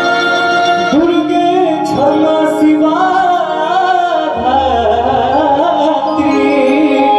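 A male singer sings a long, ornamented alaap with held, wavering notes, entering about a second in, over sustained electronic keyboard chords and bass.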